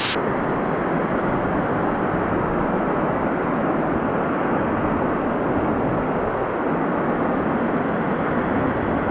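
Steady rushing of a waterfall, heard muffled with the high end cut off.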